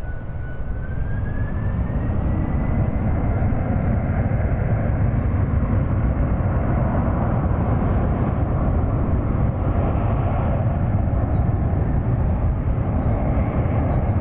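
Boeing 747-400 freighter's four jet engines running loud: a deep, steady rumble with a thin whine that rises in pitch a second or two in, then holds.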